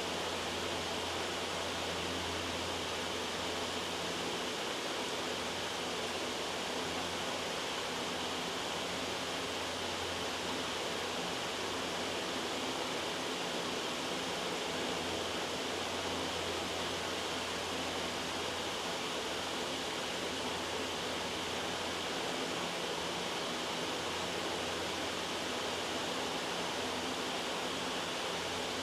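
Steady, loud white noise: an even hiss with no breaks.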